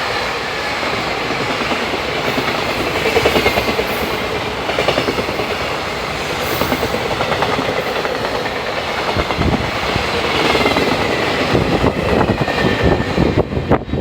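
Freight train hauled by an EF210 electric locomotive running past at speed, its wagon wheels rolling and clattering over the rail joints in regular groups.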